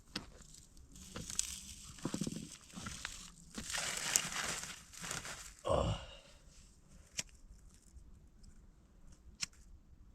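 Crumpling and rustling in several bursts over the first six seconds, like material being scrunched up by hand. It ends in a brief falling sound, followed by a few isolated sharp clicks.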